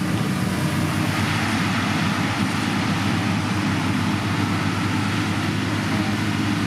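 Diesel engine of a heavy road-building machine running steadily at constant speed, with an even, unchanging note.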